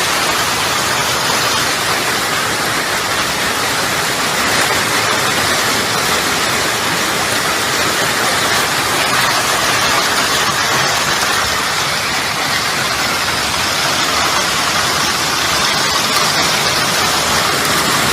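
Loud, steady rushing of water: an even, unbroken noise of heavy flow or torrential downpour.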